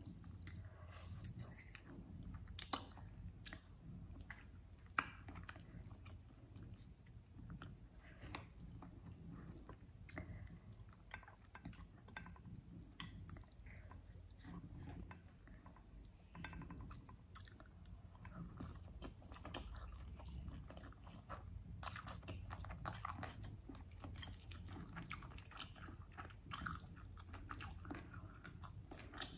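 Close-miked chewing and biting of chicken wings with rice and sambal: soft, wet, irregular mouth clicks and smacks, with two sharper clicks about 3 and 5 seconds in.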